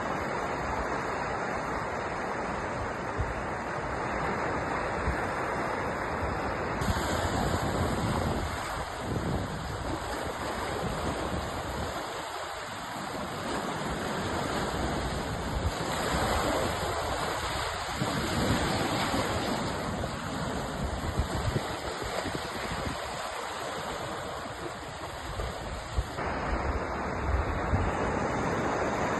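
Sea surf washing in continuously, a steady rush of waves that swells and eases every few seconds.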